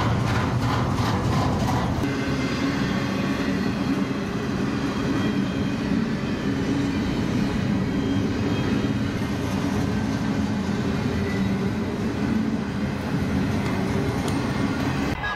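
Double-stack intermodal freight cars rolling past close by: a steady rattle and rumble of steel wheels on the rails, with a regular clicking of wheels over rail joints in the first couple of seconds.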